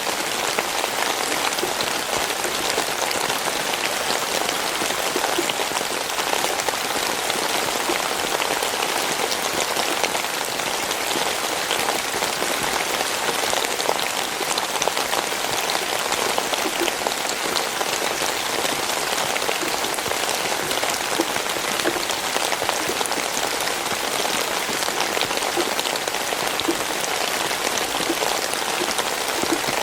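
Steady rain falling, a continuous even hiss filled with countless small drop ticks on a surface.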